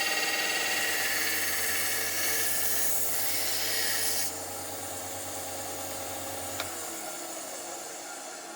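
Electric sanding or grinding machine working the knife handle with a steady hiss, the abrasion stopping a little past halfway while the motor runs on. Near the end it is switched off and winds down, falling in pitch.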